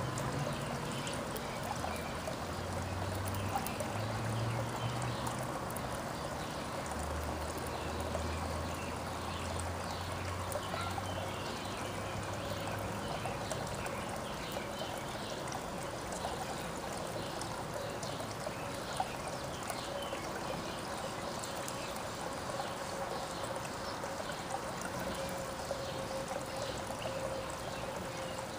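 Steady trickle of running water, with faint short bird chirps over it and a low drone in the first half.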